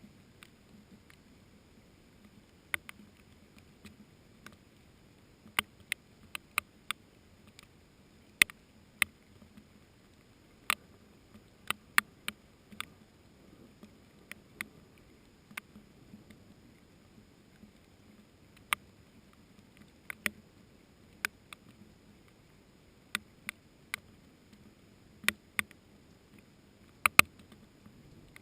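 Single water drops landing one at a time as sharp ticks at irregular intervals, roughly one a second with some quick pairs, over a faint steady hiss of light rain.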